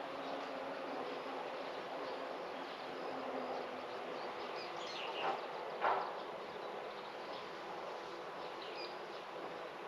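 Outdoor garden ambience: a steady background hush with faint, scattered high bird chirps, and two short louder sounds about five and six seconds in.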